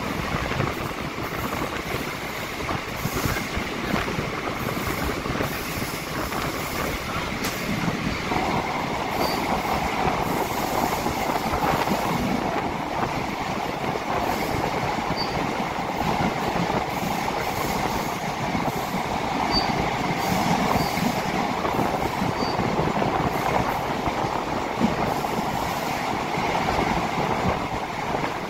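Train running at speed through a tunnel: a steady rush of wheel and rail noise, heard from beside the coach inside the tunnel. It grows a little louder and harsher about eight seconds in.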